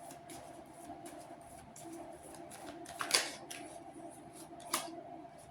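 Tarot cards being handled and drawn: quiet rustling and light clicks, with two sharper card snaps about three seconds and nearly five seconds in, over a faint steady hum.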